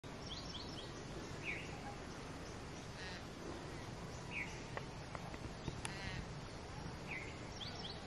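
Wild birds calling: scattered short chirps and a couple of raspy call series, over a steady outdoor hiss.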